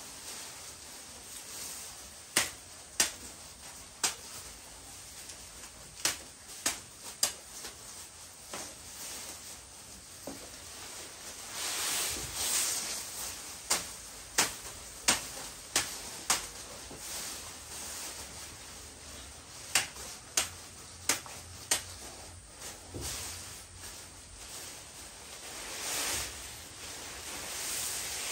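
Sharp clicks or knocks, mostly in runs of three to five about two thirds of a second apart, over a rustling hiss that swells up twice.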